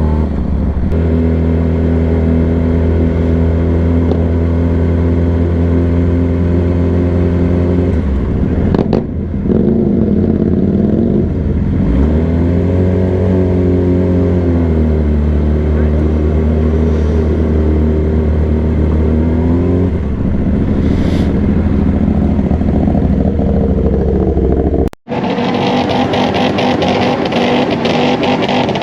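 Yamaha R6 inline-four sport bike engine running at a steady cruise under the rider. A brief throttle-off comes about nine seconds in, and the revs rise and fall a few seconds later. Near the end the sound cuts off sharply and a different, denser engine noise takes over.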